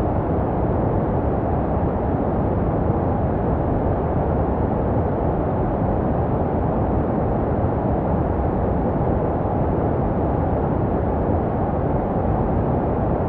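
Steady, deep white noise for baby sleep, a muffled rushing sound made to resemble what a baby hears inside the womb. It is most of its strength in the low range, with no changes in level or pitch.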